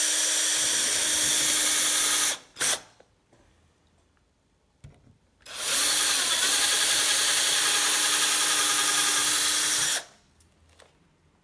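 Power drill running in two spells, about two seconds and then about four and a half seconds, with a brief blip between. It is drilling weight-saving holes with a 3 mm bit in a quick-release skewer, and the motor's pitch sags briefly as the bit bites early in the second spell.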